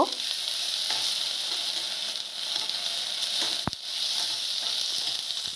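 Onion, chillies and ginger paste sizzling steadily in hot mustard oil in a steel kadai, with a spatula stirring and scraping through them and one sharp click a little past halfway.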